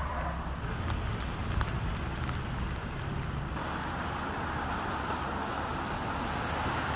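Steady outdoor noise: a low rumble under an even hiss that becomes brighter about halfway through, with a few light ticks in the first half.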